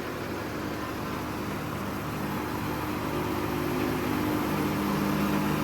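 Tractor-driven mill machinery running: a steady engine hum with a few low droning tones under a noisy hiss, growing slowly louder.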